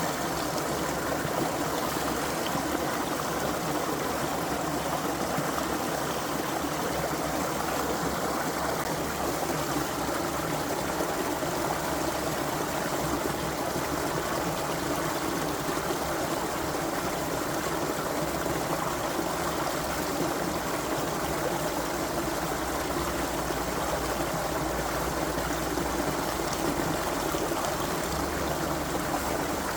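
A brook's water running steadily, an even, continuous rushing without pauses or changes.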